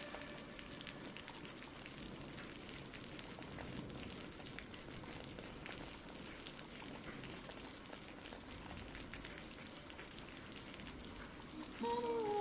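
Steady rain with scattered fine drop patter. Near the end a sung melody begins over it.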